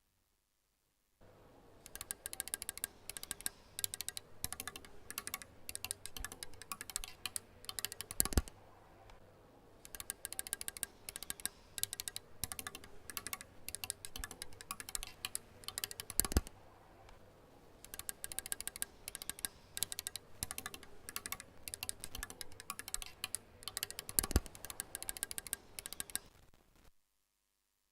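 Fast typing on a keyboard: long runs of quick key clicks broken by short pauses, with a heavier single keystroke about every eight seconds.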